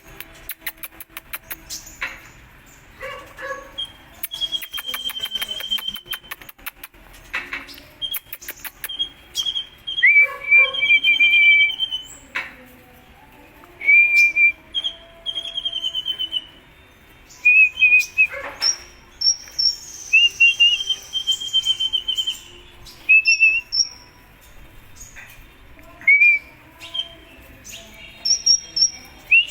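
Sunbird (the 'kolibri ninja' of Indonesian bird-keeping) singing. It gives bursts of high, thin chirps and short trilled phrases, mixed with rapid ticking runs, repeating every second or two.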